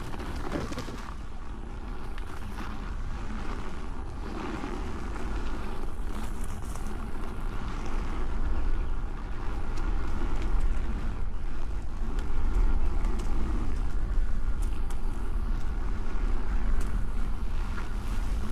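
Wind rumbling on the microphone of a camera riding along on a Nosfet Apex electric unicycle over a dirt trail, with the wheel's tyre and motor noise beneath. It grows somewhat louder over the second half.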